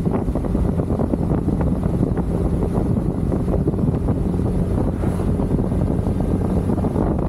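Wind rushing over the microphone on a moving motorcycle, over a steady engine hum and road noise.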